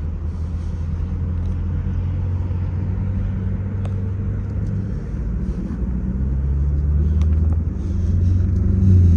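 V8 car engine running with a steady low rumble, growing louder about six seconds in and again near the end.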